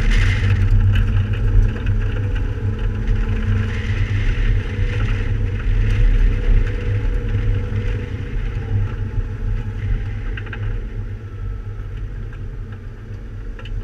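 Porsche 991 Carrera S flat-six engine running, a steady low rumble that grows quieter over the last several seconds as the car slows.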